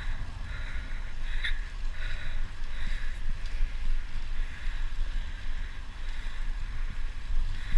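Wind rushing over the microphone and tyres rolling on pavement while riding a bicycle, with a hiss that swells and fades about twice a second.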